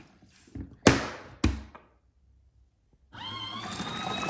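Plastic lid of a folding mini washing machine knocked shut: a few sharp knocks in the first two seconds. After a short gap, the washer's small motor runs with a steady hum and a whine that rises slightly.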